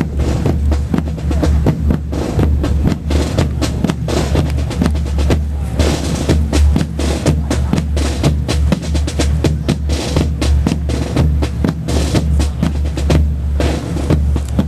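Marching band music driven by a drumline: fast snare drumming and rolls over a steady pounding bass drum.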